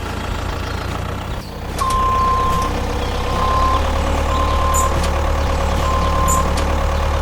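Truck engine running steadily with a reversing beeper sounding four beeps, starting about two seconds in, the first one longer.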